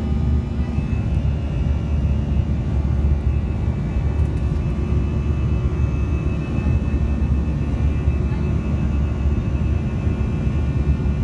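Jet airliner cabin noise heard from inside the passenger cabin: a steady, unbroken low rumble of the engines and the airflow.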